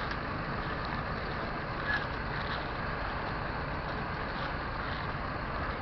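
John Deere 7930's 6.8-litre diesel engine running steadily, with wind on the microphone.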